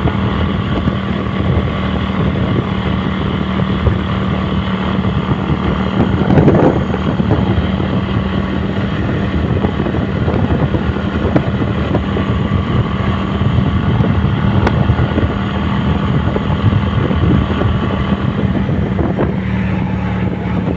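Kasinski Mirage 250 motorcycle's V-twin engine running with a loud, steady rumble, swelling briefly louder about six seconds in.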